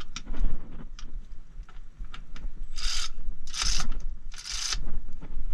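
Handling noise of rubbing and scraping: a few light clicks, then three short rasping sweeps in quick succession past the middle.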